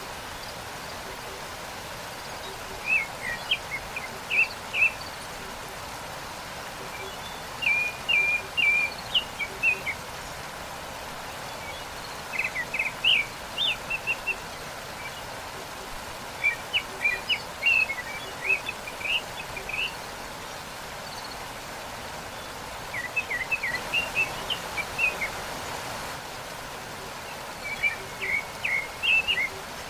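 Waterfall rushing steadily, with a songbird repeating a short phrase of rapid high chirps about every four to five seconds.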